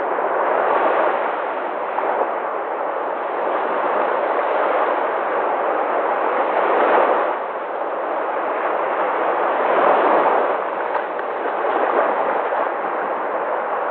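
Sea waves breaking and washing ashore, a continuous rush of surf that swells and eases several times.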